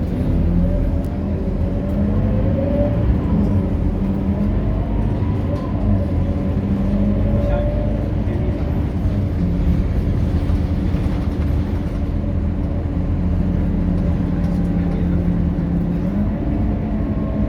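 Scania K230UB city bus engine running under way, with a deep steady rumble. Its pitch rises and falls several times as the bus pulls away, speeds up and slows.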